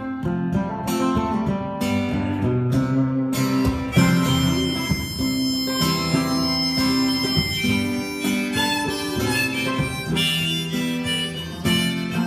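Harmonica playing an instrumental break over acoustic guitar strumming, with long held notes.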